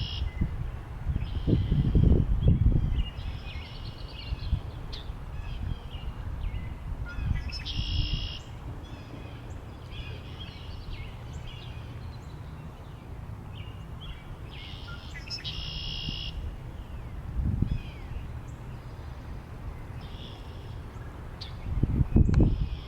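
Wild birds singing, one repeating a short song phrase about every eight seconds among scattered chirps, over wind buffeting the microphone in gusts that swell near the start and again near the end.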